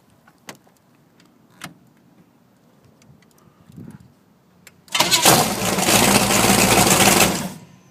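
After a couple of faint clicks, the jet boat's 454 big-block Chevrolet V8 fires suddenly about five seconds in and runs loud and steady for about two and a half seconds before shutting off.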